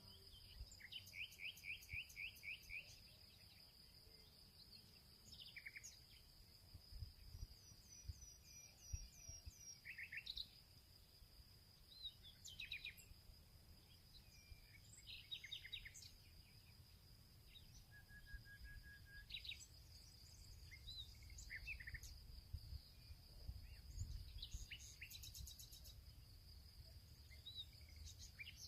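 Several songbirds chirping and calling over a steady, high-pitched insect drone, with a quick run of repeated notes near the start. A faint low rumble runs underneath.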